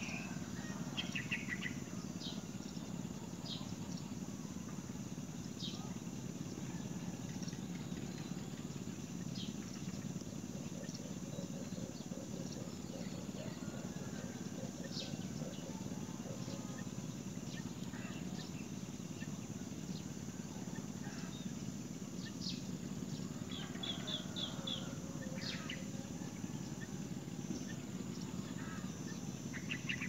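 Short, high bird chirps come at scattered moments over a steady low background hum. There is a quick run of them about a second in and another about three-quarters of the way through.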